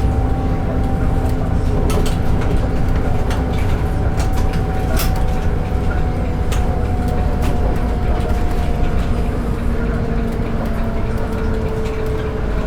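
Cabin sound of a 2014 Volvo B8RLE city bus on the move: the low drone of its six-cylinder diesel and road rumble, with a whine that slowly falls in pitch. Many short clicks and rattles from the bus's interior fittings.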